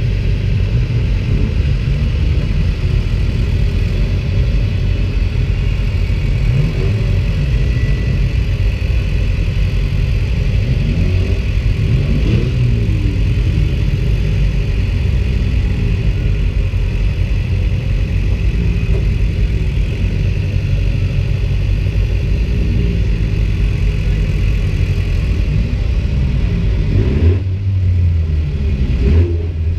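Race car engine idling, heard from inside its stripped-out cabin, with the revs rising and falling briefly about twelve seconds in and again near the end.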